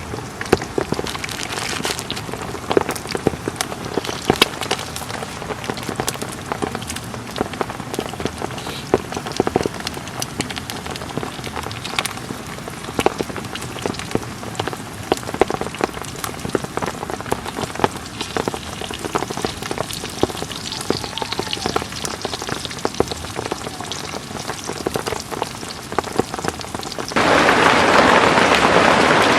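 Heavy rain falling on a tent: a steady patter with many sharp, separate drop hits. Near the end it changes suddenly to a louder, denser hiss of downpour.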